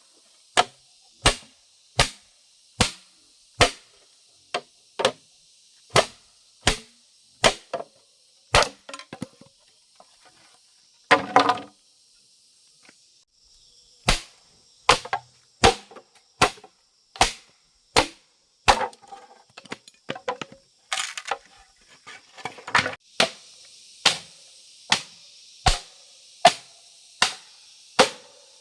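Steady chopping: a blade strikes wood in even, sharp blows about every three-quarters of a second. The blows pause for a few seconds in the middle, with a short scraping and rustling, then carry on at the same pace.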